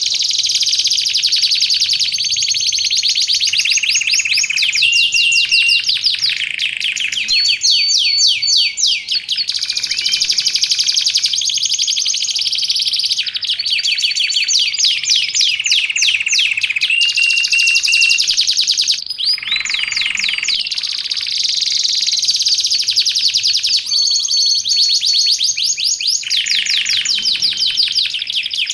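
Domestic canary singing continuously: long runs of fast trills and repeated notes, broken now and then by short held whistled notes.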